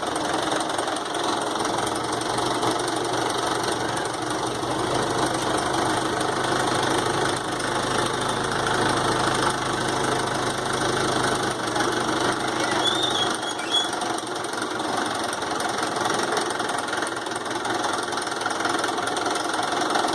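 Tractor engine running steadily. A low hum underneath drops away about two-thirds of the way through.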